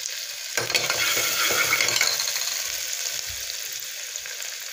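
Onions frying in hot oil with mustard and fenugreek seeds in a pressure cooker during tempering, sizzling steadily. About half a second in, a metal ladle goes in to stir, scraping against the pot, and the sizzle grows louder for a second or so.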